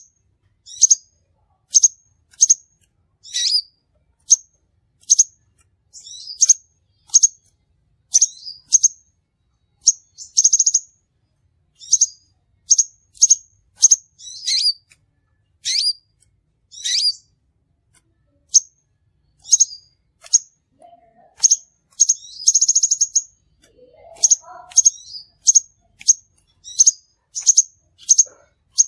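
Crimson sunbird calling: a series of sharp, high-pitched chirps repeated about once or twice a second, broken by two short buzzy trills, one about ten seconds in and one about twenty-two seconds in.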